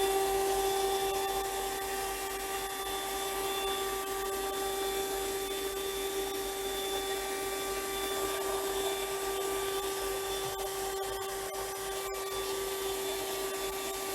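120 W car vacuum cleaner running at a steady high-pitched whine while its small brush attachment rubs over a car seat, picking up debris; a few light clicks about three-quarters of the way through.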